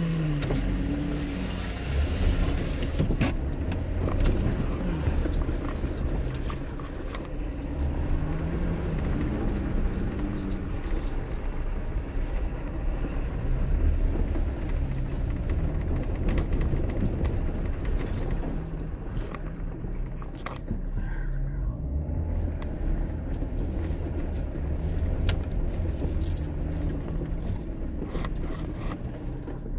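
Jeep Wrangler JKU engine pulling at low speed off-road, heard from inside the cab, its pitch rising and falling with the throttle over a deep low rumble. Frequent light rattles and clicks come through as the Jeep bumps over rutted ground.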